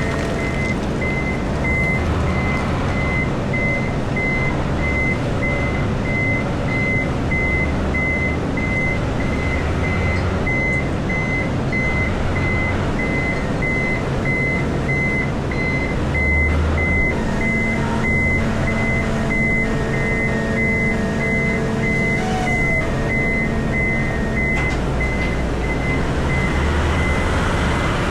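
Komatsu PC4000 mining excavator heard from its cab: the machine runs with a steady low drone. A short high beep repeats about twice a second over it.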